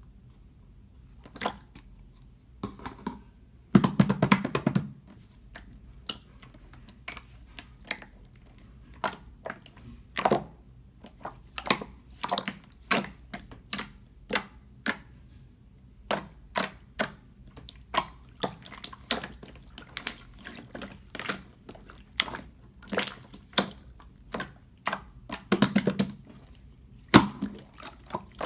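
Yellow jiggly slime being pressed and poked by hand, giving a run of sharp wet clicks and pops, a few every second, with denser crackling bursts about four seconds in and near the end.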